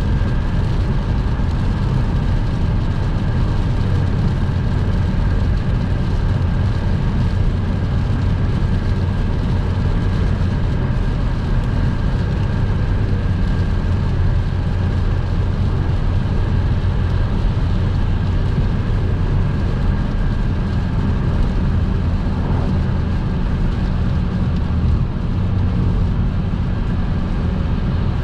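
Car driving at motorway speed: steady engine and tyre noise with a low drone and a thin, steady high whine.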